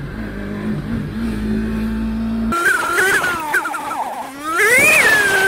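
Yamaha MT-25's parallel-twin engine running at low revs, then, from about two and a half seconds in, revving hard: the pitch wavers, climbs to a peak near the end, drops with a gear change and holds a steady high note.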